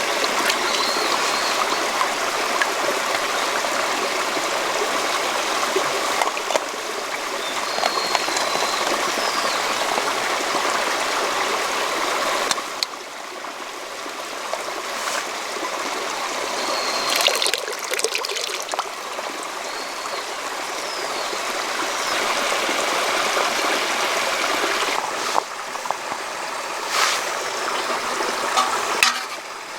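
A stream flowing in a steady rush of water, briefly quieter about 12 seconds in. A few short high chirps and some scattered clicks sound over it.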